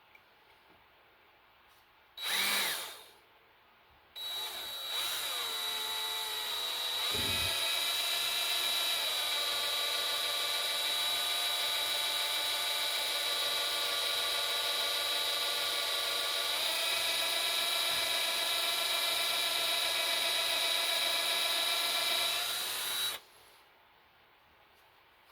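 Electric drill boring out a broken bolt in a cast-iron engine block. About two seconds in there is a brief blip of the drill, then it runs steadily for nearly twenty seconds with a high whine, its pitch settling as the bit cuts. It stops shortly before the end.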